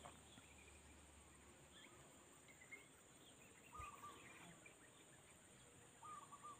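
Near silence with faint bird calls: a few scattered short chirps, then two brief whistled calls about two seconds apart.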